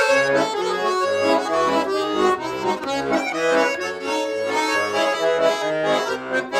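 Garmon (Russian button accordion) playing an instrumental interlude between sung verses of a folk-style song, with a steady rhythm of bass notes under the melody.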